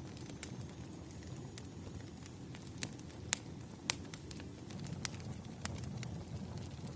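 Campfire crackling: a low steady rumble of flames with scattered sharp pops and snaps, the loudest two about three and four seconds in.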